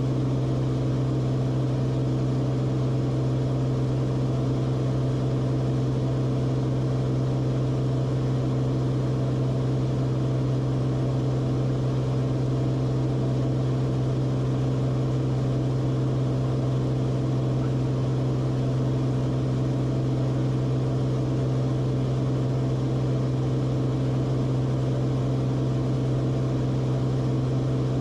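Cessna Corvalis TTX's turbocharged flat-six engine and propeller running at a constant speed: a steady, unchanging drone.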